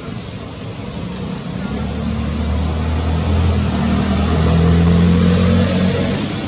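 A motor vehicle's engine passing close by: it grows louder to a peak about five seconds in, then fades.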